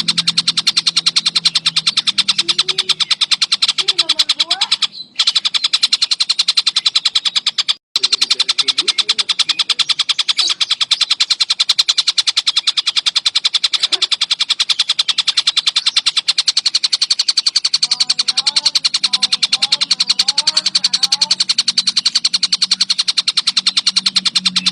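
Tengkek buto (kingfisher) call, a fast rattling trill of evenly spaced high notes repeated without pause. It breaks off briefly twice, around five and eight seconds in. Fainter, lower wavering calls from other birds sound underneath.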